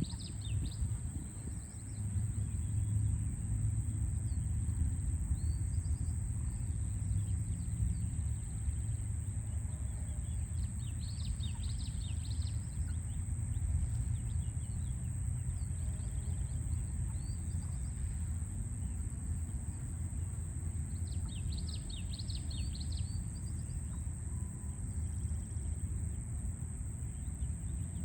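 A songbird singing two short bursts of rapid high chirps, with a few single notes between, over a steady low rumble of distant city traffic.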